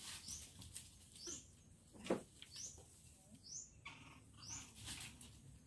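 Faint short high chirps, each rising and falling, repeated about once a second: a bird calling. A soft thump about two seconds in.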